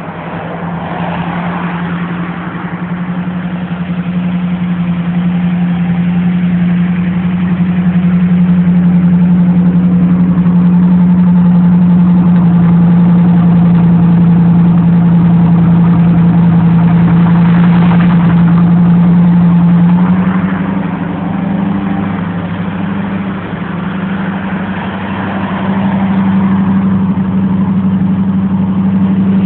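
Chevrolet Camaro V8 engine idling steadily. It grows louder over the first several seconds, and about twenty seconds in the pitch steps slightly up while the level briefly dips.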